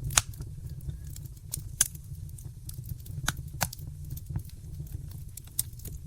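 Wood fire in a fireplace crackling: irregular sharp pops and snaps, a few of them louder, over a steady low rumble of the flames.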